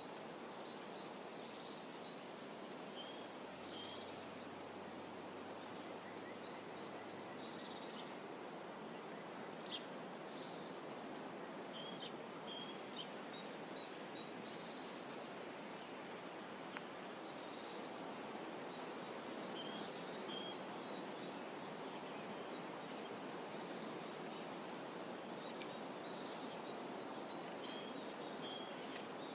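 Steady outdoor shoreline ambience, a soft even hiss, with small birds chirping in short high calls again and again throughout. A faint low hum comes in for a few seconds near the start.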